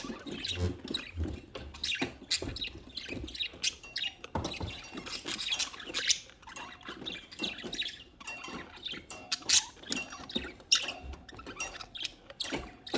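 Several budgerigars chirping and chattering in short, irregular calls, with light scratchy clicks mixed in.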